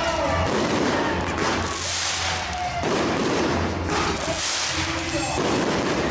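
Fireworks going off: dense, rapid crackling and popping, swelling every second or two, with music playing underneath.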